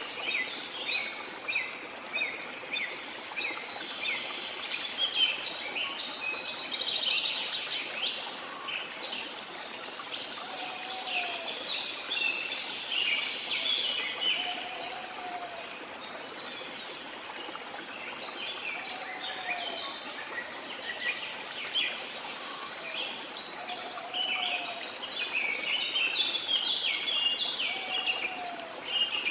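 A chorus of songbirds chirping and singing over the steady rush of a waterfall. From about ten seconds in, a lower, short call repeats roughly every four to five seconds beneath the chirping.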